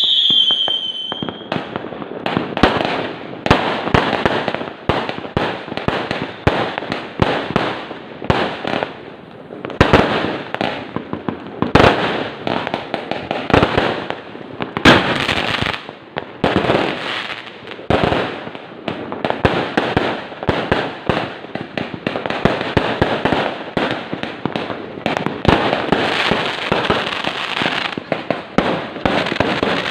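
A string of Chinese firecrackers going off in a rapid, continuous chain of sharp pops and cracks, with louder bangs scattered through it. A short falling whistle sounds in the first second.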